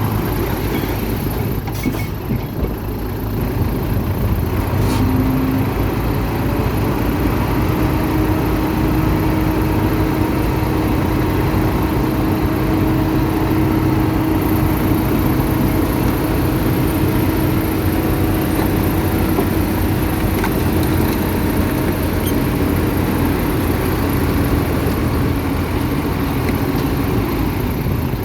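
Diesel engine of heavy earthmoving machinery running steadily, with a steady whine that holds one pitch from about six seconds in until a few seconds before the end.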